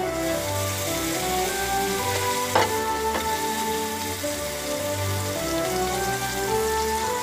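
Sliced bitter melon (ampalaya) frying in a metal pan, sizzling steadily, under background music with held notes. Two sharp clicks come about two and a half and three seconds in.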